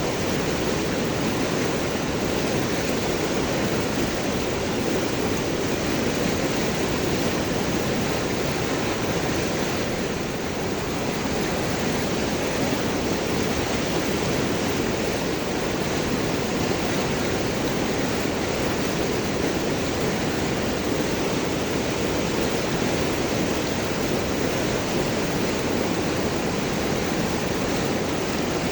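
River water flowing and gurgling over and around large rocks, a steady rushing with no change in level.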